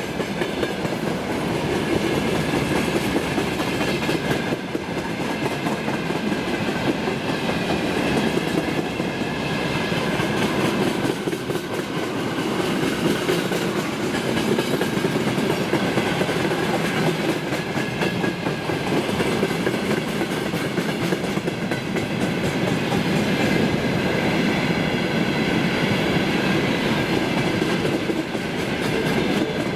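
Freight train rolling past at close range: a steady clatter of wagon wheels clicking over the rail joints, with a faint ringing from the wheels and rails.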